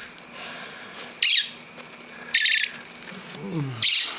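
Baby robin giving short, harsh squawking calls, three of them about a second and a half apart: the begging calls of a hungry young bird. A quieter low sound falls in pitch just before the last call.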